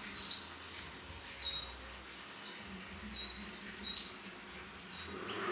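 Female domestic canary giving short, high, clear chirp calls, one every second or so. A brief rustling noise near the end.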